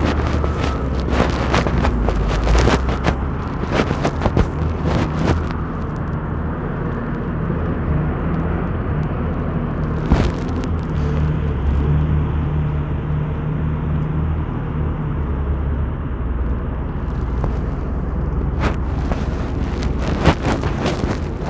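A motor vehicle's engine running close by, a steady low hum, with scattered sharp knocks and clicks in the first few seconds and again near the end.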